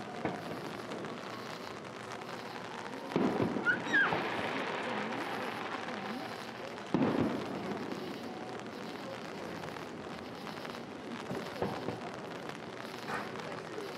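Aerial fireworks going off: two loud bursts about three and seven seconds in, and a few fainter pops near the end, over a steady hiss.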